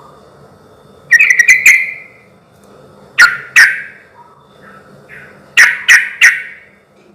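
Trucukan (yellow-vented bulbul) singing loud, bubbly phrases of quick notes. A rapid run comes about a second in, two notes a little after three seconds, and three notes near the end.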